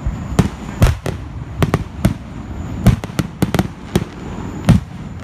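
Fireworks going off: a rapid, irregular series of sharp bangs and cracks, a dozen or so, over a continuous low rumble, with the loudest bangs near the start and about four and a half seconds in.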